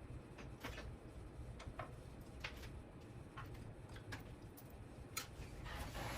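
Faint, irregular small clicks and taps from handling small parts and wiring on a workbench, with a soft rustle near the end.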